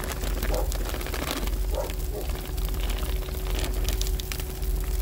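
Shredded hash browns crackling and sizzling as they land in hot melted butter in a frying pan, over a steady low rumble.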